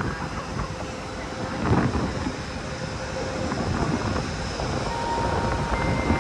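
Electric passenger train at a station platform: a steady rumble with faint hums from the locomotive, and a louder knock a little under two seconds in.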